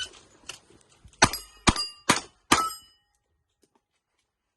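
Four revolver shots in quick succession, a little under half a second apart, each followed by the brief metallic ring of a steel target plate being hit.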